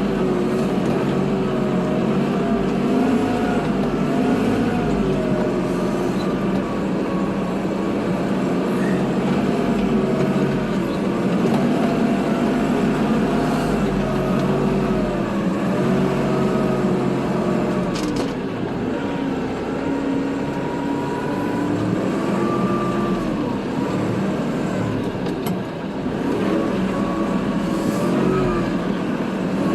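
Kubota tractor's diesel engine running under load while plowing snow, its pitch rising and falling as the revs change.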